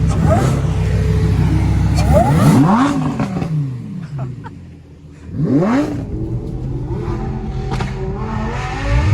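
Car engine running, then revved twice: the pitch climbs and falls about two seconds in and again about five and a half seconds in, with a quieter lull between the revs.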